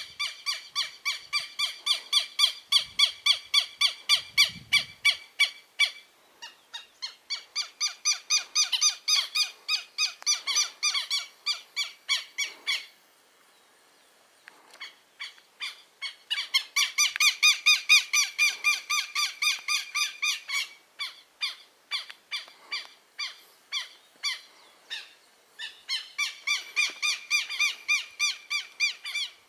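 Southern lapwings (quero-quero) calling: fast runs of sharp, repeated notes, about four a second, in bouts with a short lull a little before halfway.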